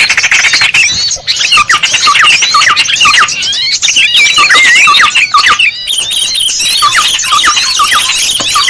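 Small birds calling in a dense chorus: many rapid, overlapping high chirps and twitters, some hooking down in pitch. It is a bird-lure recording of the kind played to draw small birds in.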